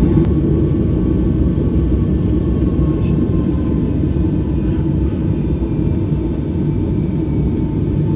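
Steady low rumble inside the cabin of a Delta Boeing 757-200 taxiing to the gate after landing, with a faint steady whine above it.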